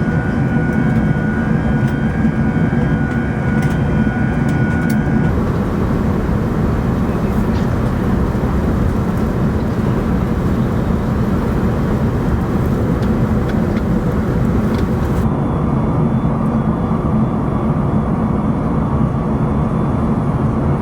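Steady cabin roar of an Airbus A380 airliner, engine and airflow noise heavy in the low end. A faint pulsing high tone sounds over the first five seconds.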